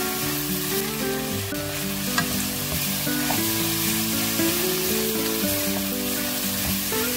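Squid and vegetables sizzling as they are stir-fried in a hot nonstick pan, a wooden spatula tossing and scraping them, with a sharp tap about two seconds in. A simple background melody plays underneath.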